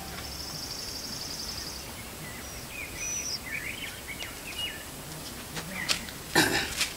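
Outdoor background with birds chirping and calling: a high trill in about the first two seconds, then scattered short chirps. A short burst of noise about six and a half seconds in is the loudest sound.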